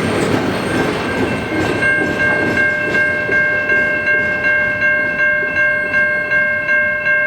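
Freight cars of a CN manifest train rolling slowly past with clicking wheel noise. From about two seconds in, a steady high ringing of several tones joins, pulsing about twice a second.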